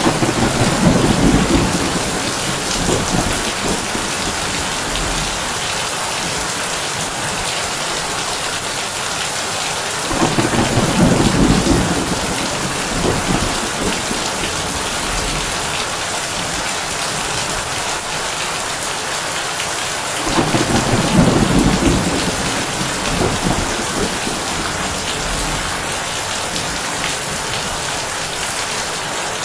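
Heavy rain falling steadily on a tin roof, with three low rolls of thunder about ten seconds apart, each lasting a couple of seconds: one at the start, one about ten seconds in and one about twenty seconds in.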